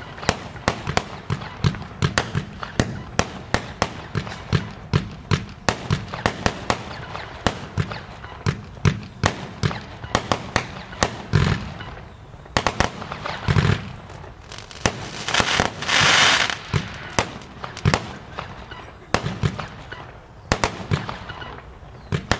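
Fireworks battery firing shot after shot, about two or three a second, with a dense, loud run of noise about two-thirds of the way through.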